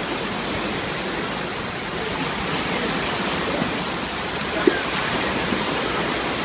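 Steady rush of falling, splashing water, an even hiss at a constant level.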